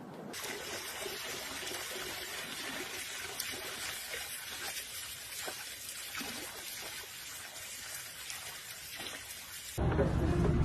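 Water trickling steadily, with a few faint ticks.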